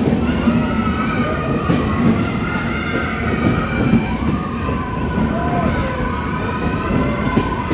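Indian Railways train running on its track: a steady rumble of wheels on rail with small irregular knocks, overlaid by a long, wavering high-pitched squeal.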